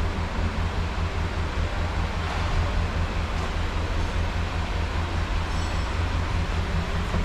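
A motor running steadily: a continuous low mechanical drone with a fast flutter in it and an even hiss above.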